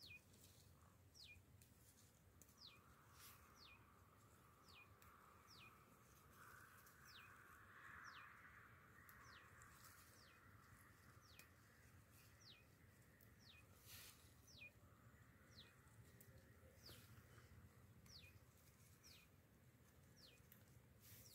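A faint bird calling over and over, a short downward-sliding note repeated about once a second.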